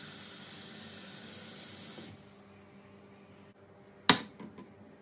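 A steady hiss, like a spray or a rush of air, lasts about two seconds and cuts off abruptly. A single sharp click follows about four seconds in.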